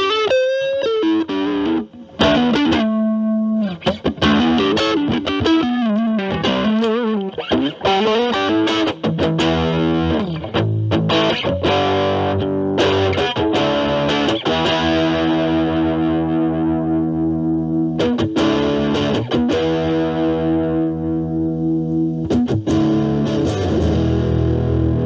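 Fender Stratocaster played through an Ibanez Super Metal mini distortion pedal into a Marshall Valvestate clean channel, with the drive set low so the tone is only lightly distorted. Single-note lines with bends and vibrato give way, about ten seconds in, to sustained ringing chords.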